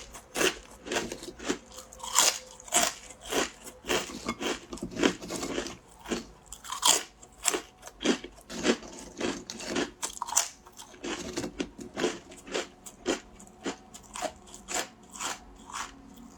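Close-up crunching and chewing of fried guoba (crispy rice crust) crackers, one crisp crunch about every half second.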